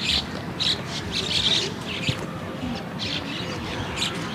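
Birds chirping in short, scattered calls over a steady outdoor background hum.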